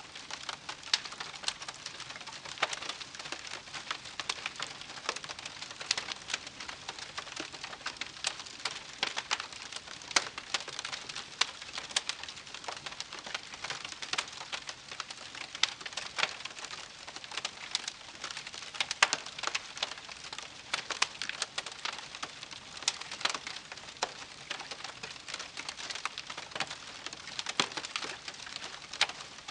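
Wood campfire crackling: dense, irregular crackles and sharper pops over a soft hiss.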